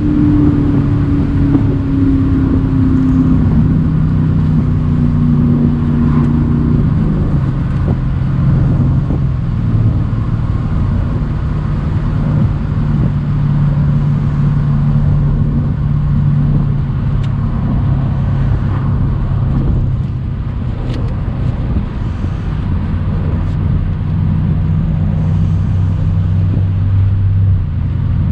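Mercedes-AMG C63 cabriolet's twin-turbo V8 cruising along a country road at an easy pace, its note sinking slightly over the first few seconds and then holding steady.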